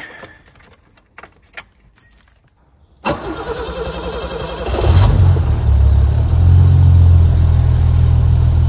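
Alfa Romeo 75's Busso V6 started on the key: a few faint clicks, then about three seconds in the starter cranks for roughly two seconds before the engine catches and settles into loud, steady running.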